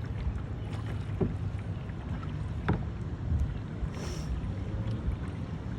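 Kayak being paddled: paddle strokes in the water and water lapping at the hull over a low wind rumble on the microphone, with a short splash about four seconds in.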